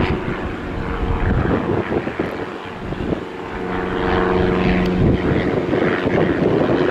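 Propeller airplane's engine running with a steady drone of several held tones.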